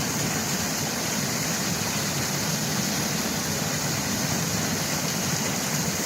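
Floodwater gushing under pressure out of a culvert pipe: a steady, loud rush of water.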